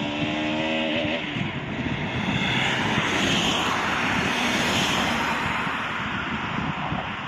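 Engine noise: a motor's tone rises about a second in, then gives way to a loud, steady rush.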